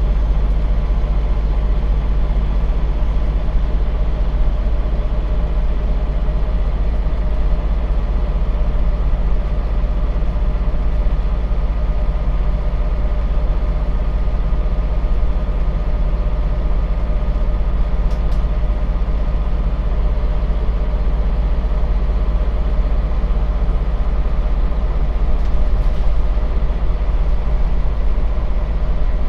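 Scania bus engine running steadily with a deep, even rumble, heard from on board the bus; no revving or gear changes.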